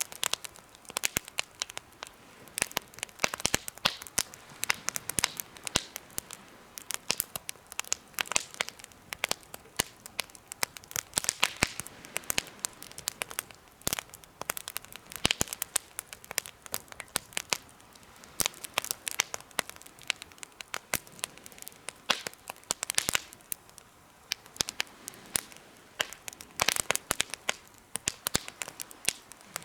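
Campfire crackling in a homemade fire stand: a dense, irregular run of sharp pops and snaps over a soft hiss.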